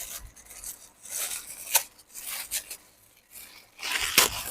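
Hands handling and rubbing objects: an irregular run of rustling and scraping noises with a sharp click a little under two seconds in.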